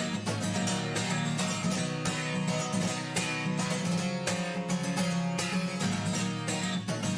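Strummed acoustic guitar playing an instrumental passage of a song, with a steady rhythm and no singing.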